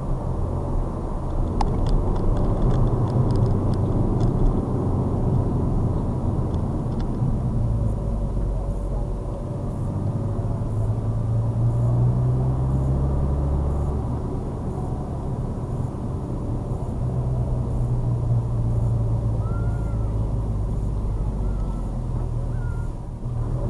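Ford Focus ST's 2.0-litre four-cylinder turbodiesel droning at low revs with tyre and road noise, heard from inside the cabin, as the car slows from about 48 mph to a crawl. The drone swells and eases slowly.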